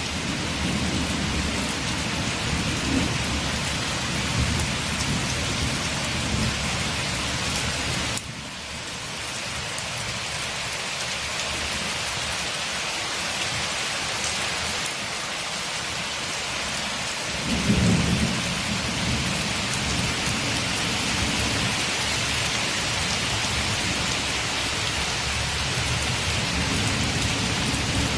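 Steady heavy rain pattering on a window, with low rolling thunder underneath. The rumble cuts off suddenly about eight seconds in, leaving just the rain, and swells back in around eighteen seconds.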